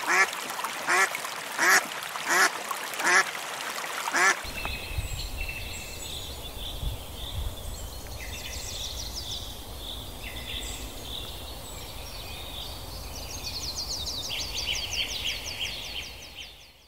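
An animal calling loudly and repeatedly, about one call every 0.7 seconds, six calls in all. About four seconds in the sound changes abruptly to high, trilling birdsong from several birds over a low steady rumble, which fades out near the end.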